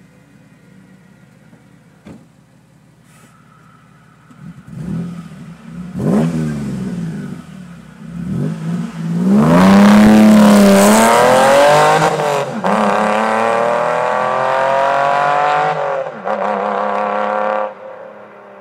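Toyota MR2's swapped-in 1MZ VVT-i V6 engine, heard through its exhaust. It idles quietly, gives a couple of short blips of the throttle around five to six seconds in, then revs hard with the pitch climbing. The pitch dips briefly near eleven seconds and climbs again, loud and sustained, until the throttle is released near the end.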